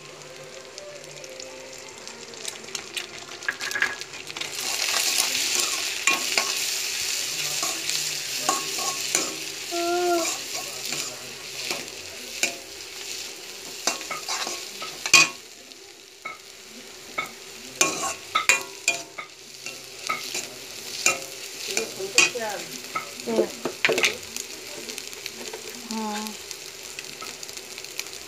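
Chopped onion, tomato and chillies sizzling in hot oil in a metal wok (kadai), with a metal spatula stirring and repeatedly clicking and scraping against the pan; this is the masala tempering for dal fry. The sizzle is loudest in the first half and eases later.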